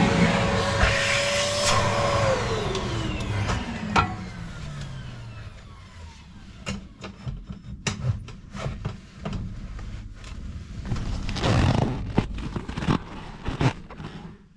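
Ash vacuum running, switched off about two seconds in, its motor whine falling steadily in pitch as it winds down. Then scattered light knocks and clicks of metal and stove parts being handled.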